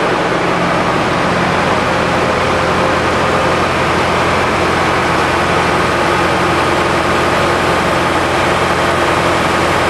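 Lister Petter HL4 engines driving high-pressure water pumps, running steadily in bi-fuel mode on diesel and producer gas from a gasifier. The engine sound is loud and even and does not change.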